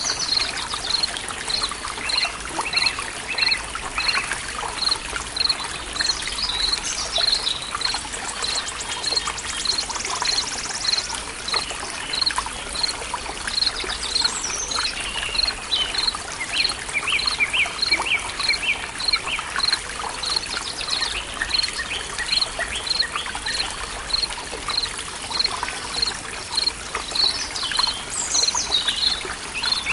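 Forest ambience: water trickling steadily while birds sing. A high chirp repeats at an even pace a little under twice a second throughout, and other birds call in short runs.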